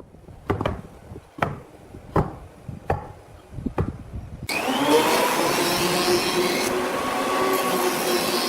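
Wood being worked by hand, with sharp strokes roughly every three-quarters of a second. About halfway through, an electric power tool starts abruptly, its pitch rising as it spins up, then runs steadily and loudly.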